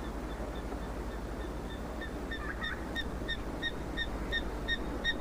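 An animal calling: a series of short, high piping notes, about three a second, growing louder, over a steady hiss.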